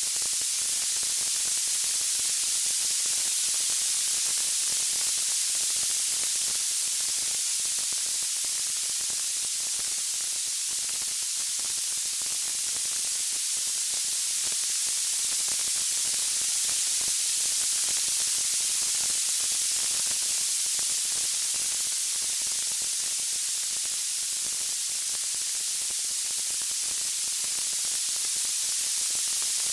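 Steady, bright white-noise hiss, even and unchanging, with no crackles, pops or music.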